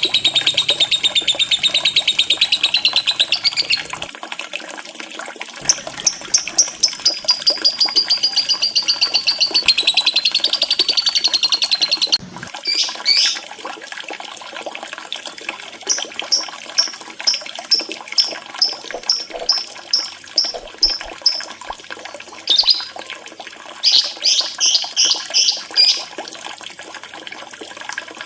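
Lovebird song: long, very fast trills for about the first twelve seconds, then runs of short, sharp chirps. A steady wash of running water lies underneath.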